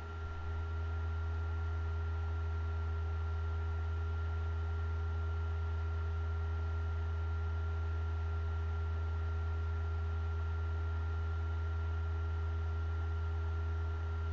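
Steady low electrical hum with a thin, high steady whine above it, unchanging throughout.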